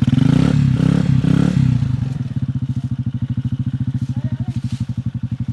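Motorcycle engine running close by, revved harder for about the first two seconds, then settling to a steady, slower chug.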